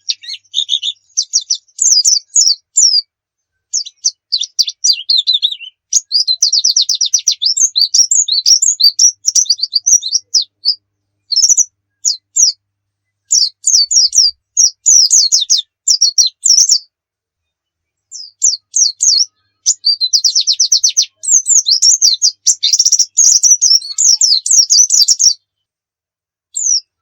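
White-eye (pleci) singing energetically: rapid, high twittering phrases and trills, strung together with short pauses between them.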